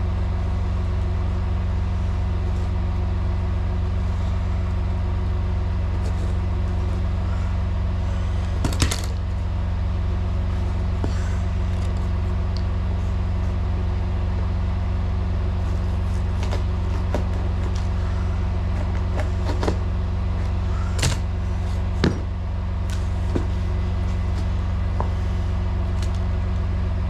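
Semi truck's diesel engine idling steadily, with a few sharp knocks and clunks from work around it, the loudest about nine seconds in and again past twenty seconds.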